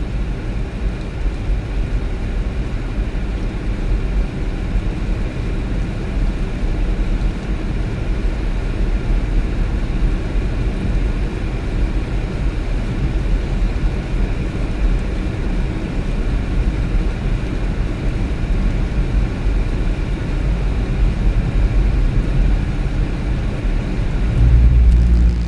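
Steady low rumble of a car on the move: road and engine noise, with a brief louder swell of low rumble about a second before the end.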